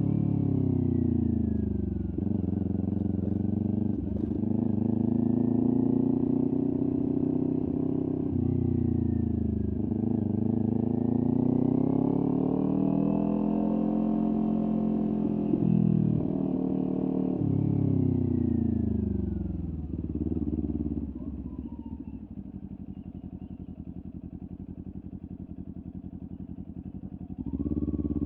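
Kawasaki Ninja 400's parallel-twin engine through a LeoVince aftermarket exhaust, revving up and down while riding, with short dips between pulls. Near the end it drops to a steady, lower idle for several seconds, then revs up again.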